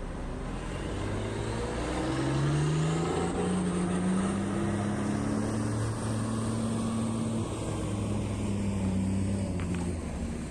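Heavy mining machine's diesel engine revving up over about two seconds, then running steadily at high revs.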